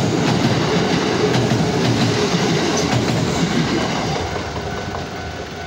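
Kintetsu Osaka Line express electric train running across a steel girder railway bridge: a heavy rumble with the wheels clacking over rail joints. The sound fades as the last cars leave the bridge, from about four seconds in.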